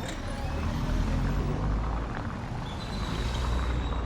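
A motor vehicle's engine running past close by in city street traffic, its low rumble swelling twice. A thin high whine sounds near the end.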